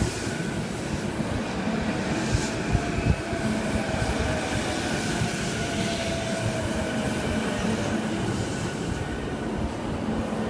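JR East E233-2000 series electric train rolling past as it slows into the station, with a steady rumble of wheels on rail. A few wheel knocks come over rail joints in the first few seconds, and a faint whine falls slowly in pitch as it brakes.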